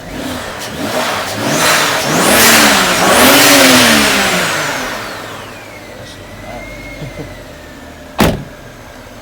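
BMW N54 twin-turbo straight-six revved up a few times, with a high turbo whine that climbs and then slowly winds down to a steady whistle. A single sharp click comes about eight seconds in. The owner hears the turbos here but is unsure about the whistling sound, which he feared would mean the VANOS solenoid cleaning had not worked.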